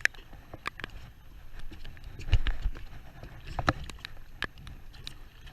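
Scattered knocks and clicks on a small boat, with two louder low thumps about two and a half and three and a half seconds in.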